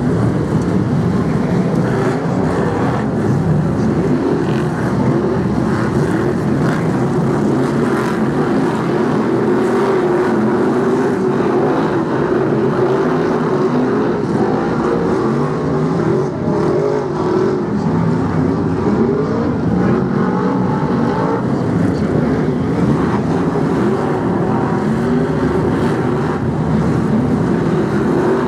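A pack of Brisca F1 stock cars' V8 engines running round the track together, several engine notes overlapping and rising and falling as the cars pass.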